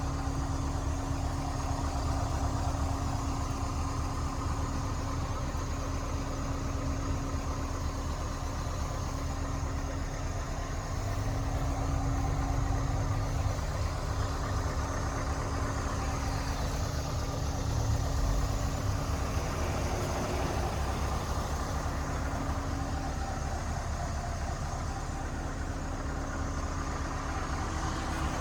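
Scania S 580 tractor unit's V8 diesel engine idling steadily, with a slight swell in level twice, around halfway and later on.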